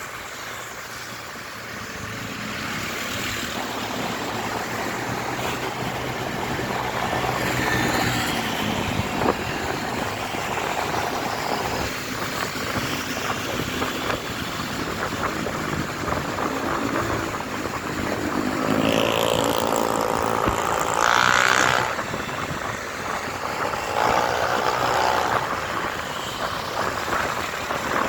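Motorcycle riding in traffic: engine running under a steady rush of wind and road noise. Two brief pitched sounds stand out, one about two-thirds of the way through and another a few seconds later.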